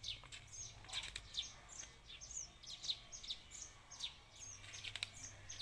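Small birds chirping: a steady run of short, high, falling chirps, a few every second.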